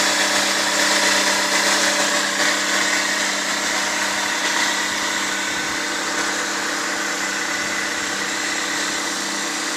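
Toyota 4ZZ-FE 1.4-litre fuel-injected petrol four-cylinder engine idling steadily, settling a little quieter about halfway through.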